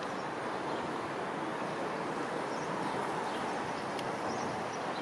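Steady rumble of trains along the railway line, with a few faint bird chirps.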